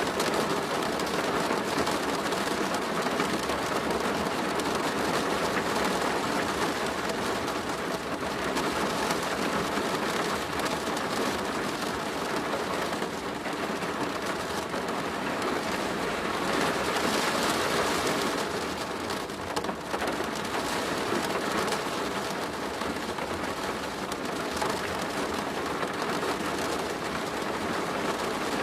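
Steady heavy rain pattering on a plastic roof, swelling slightly about two-thirds of the way through.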